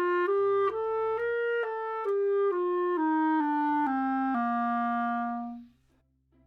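A solo melodic instrument playing a short stepwise tune that climbs and then falls back, one note at a time, ending on a held low note that stops about a second before the end.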